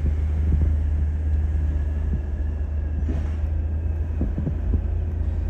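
Autocar ACX rear-loader garbage truck running close by, its diesel engine giving a steady low rumble with a few faint knocks over it.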